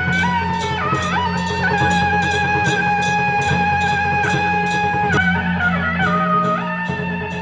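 Traditional Taiwanese temple band playing: a suona carries the melody in long held notes with slides between pitches, over drum and cymbal strokes at about four a second.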